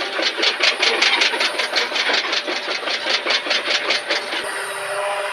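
Excavator-mounted hammer driving a ground pile: rapid, even impacts about five or six a second over the excavator's running engine. The hammering stops about four seconds in, and the engine runs on alone.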